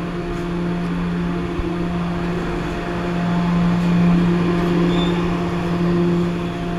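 Steady machine hum of a paint booth's ventilation fans over a continuous hiss of air, slightly louder in the middle.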